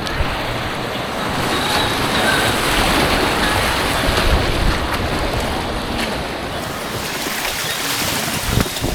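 Rushing white water of an artificial whitewater course: a steady, loud rush of churning water, with a few sharper splashes near the end.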